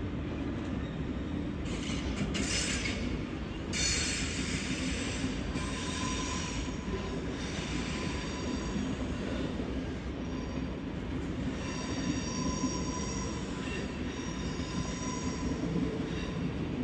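A train running on the rails with a steady low rumble, its wheels squealing in high metallic tones that come and go, loudest about four seconds in and again in the second half.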